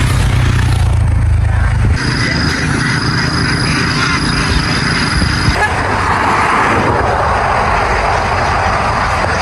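An engine running steadily, low and loud. A thin high whine joins it about two seconds in and stops about halfway through.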